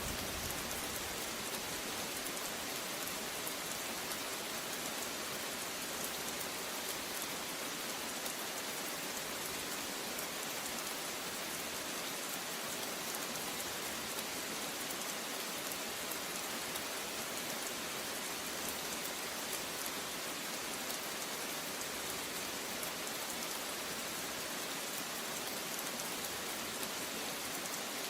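Steady rain falling on a surface, an even hiss with many small drop hits, unchanging throughout.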